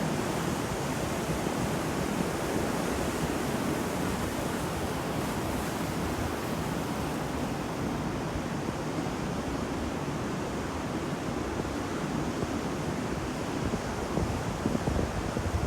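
Sea waves washing on the shore in a steady rush of surf that swells and ebbs, with a few louder rushes near the end.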